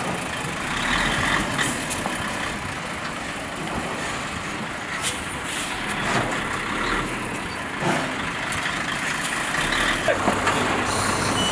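Busy street noise: vehicles running and traffic, with faint voices and a few short knocks.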